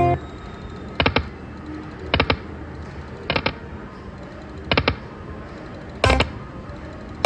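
Lightning Link slot machine played in quick succession: a short cluster of sharp clicks about every second and a quarter as each spin is tapped off and stopped, over the machine's faint background music.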